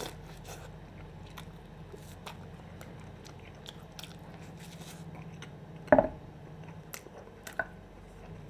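Close-miked biting and chewing of soft bread soaked in tomato salad juice, with many small wet mouth clicks over a steady low hum. A single sharp knock sounds about six seconds in.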